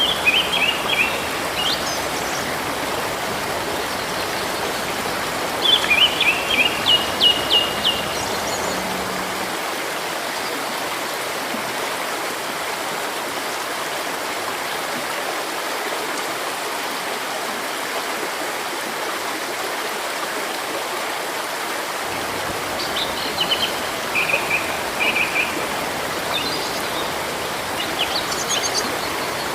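Steady rush of a flowing river, with a bird singing quick series of high chirps at the start, again for a few seconds a quarter of the way in, and repeatedly in the last six seconds.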